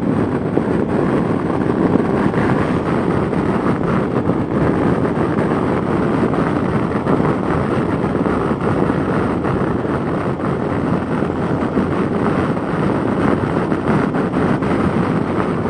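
Riding on a Yamaha FJR1300A motorcycle: steady wind rush over the microphone at road speed with the inline-four engine running evenly underneath at a constant throttle.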